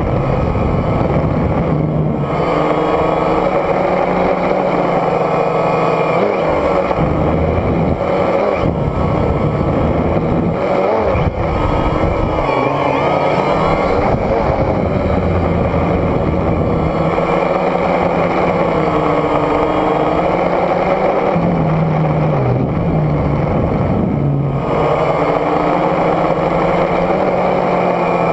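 DJI Phantom quadcopter's motors and propellers running steadily with a loud, continuous buzz, several pitches wavering up and down against one another as the rotors change speed.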